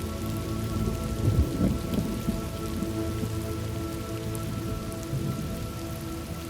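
Steady rain falling, with low thunder rumbling about one to two seconds in. A few faint steady held tones sit underneath throughout.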